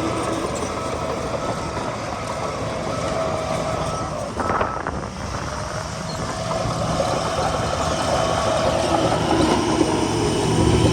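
Heavy diesel earthmoving machinery, a bulldozer and dump trucks, running steadily with engine drone, and a brief noisy burst about four and a half seconds in.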